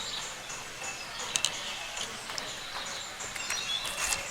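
Birds chirping with short high calls, over a faint steady high tone. A pair of sharp clicks comes about a second and a half in.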